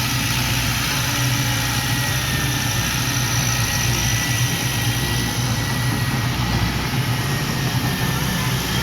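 Heavy earthmoving machine's diesel engine running steadily at a low, even pace, with a faint high whine above it.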